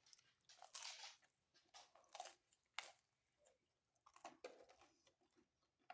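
A person chewing a mouthful of pizza close to the microphone: soft, irregular mouth clicks and smacks.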